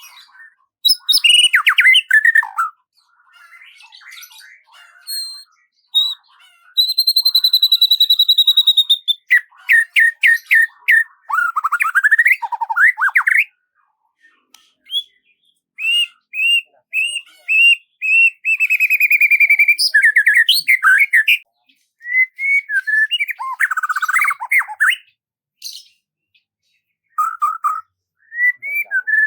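A songbird sings a varied string of whistled phrases: quick trills, runs of short repeated notes and a longer held whistle. The phrases are separated by brief silent pauses, with no background noise.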